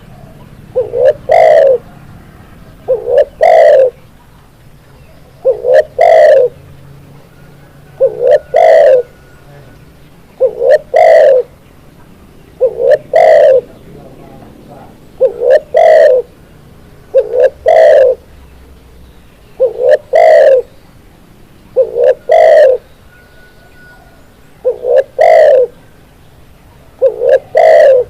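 Spotted dove (tekukur) singing its cooing song, about twelve phrases, one every two seconds or so. Each phrase is a couple of quick short notes followed by a longer coo.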